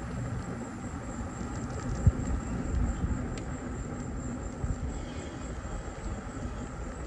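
Riding an e-bike: wind buffeting the microphone over a steady rumble of tyres on the road, with a few faint ticks.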